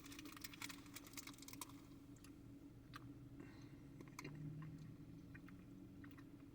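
Near silence with a faint steady hum and scattered small soft clicks, more of them in the first couple of seconds.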